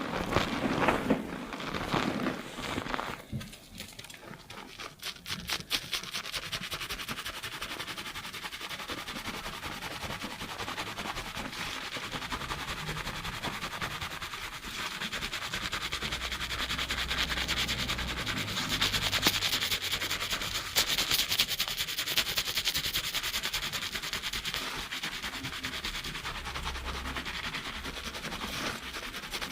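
Fingers scrubbing a lathered scalp and hair fast during a shampoo, a foamy crackling rub. A few seconds of irregular, louder rubbing give way to a fast, even scrubbing rhythm that runs on steadily.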